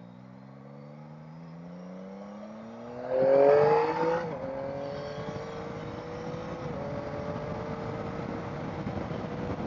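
Motorcycle engine pulling away, its pitch rising steadily for about four seconds, then dropping at a gear change and climbing slowly again, with another small drop near the seven-second mark. A louder rush of noise comes in around three to four seconds in.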